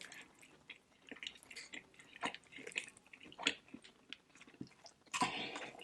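Faint chewing and lip-smacking of food: scattered small wet clicks and short smacks, a little louder about five seconds in.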